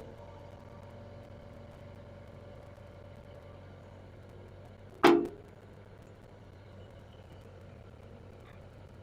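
Excavator diesel engine idling with a steady low hum, and a faint whine in the first few seconds. About five seconds in comes one sharp, loud knock.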